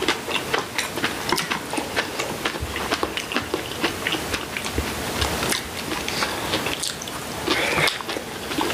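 Close-miked chewing and biting of people eating pan-fried tofu and seasoned greens with chopsticks: a steady run of small wet clicks and crackles.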